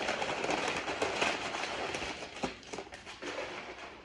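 Crinkly rustling and crackling of tortilla chips being handled to make nachos, a dense patter of small crisp clicks that thins out after about two and a half seconds.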